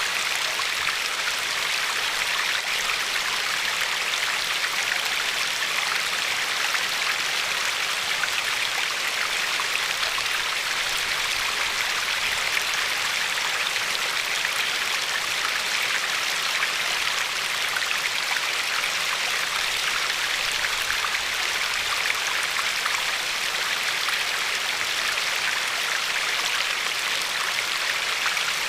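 A river of glacial meltwater running over and lapping against a pebbly shore: a steady, even rush of water with fine splashing texture.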